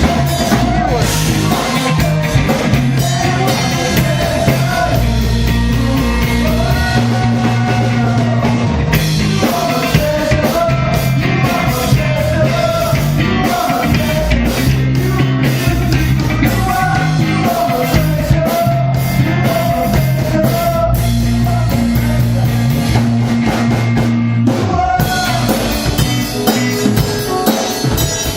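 Live rock band playing: a singer's melody over drum kit and sustained bass notes, the singing dropping out near the end.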